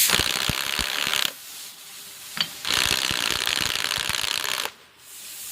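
Metal ratchet mechanism clicking rapidly in two long runs, with a short lull and a single sharp tick between them.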